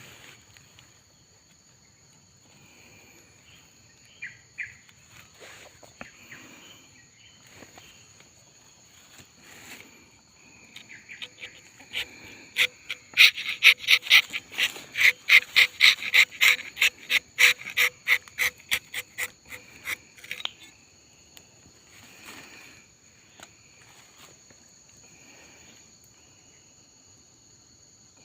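A steady high-pitched insect chorus in two tones. From about a third of the way in, a loud, rapid clicking call swells up, holds for several seconds and fades out. Light rustling is scattered through.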